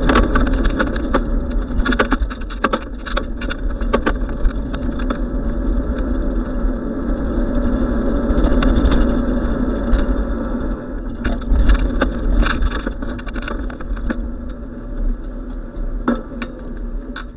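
Wind rumbling on the microphone and road noise from a moving bicycle, with frequent sharp clicks and rattles, thicker in two patches near the middle and near the end.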